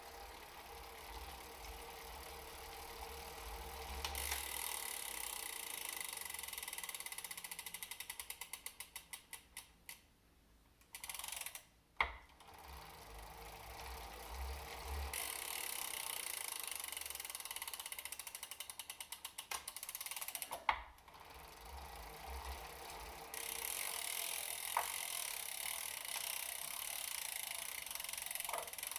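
Elite Suito-T direct-drive trainer with a bike on it, running with a steady whirr, then freewheeling with a run of ratchet clicks that slow down and stop. A few single sharp knocks stand out, the knocking the owner finds when freewheeling and suspects could come from the freehub.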